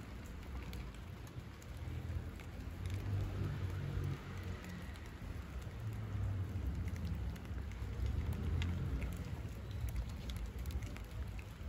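Light rain pattering, with scattered sharp drop ticks, over a steady low rumble.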